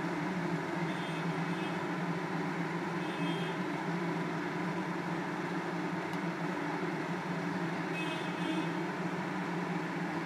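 Steady low rushing hum of a kitchen stove as a fish curry simmers in a kadai over the flame, with a few faint, brief high chirps about a second in, at about three seconds and near the end.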